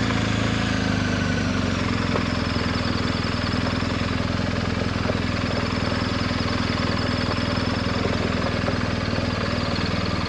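Adventure motorcycle engine running at a steady, unchanging pace, its low hum holding one pitch throughout.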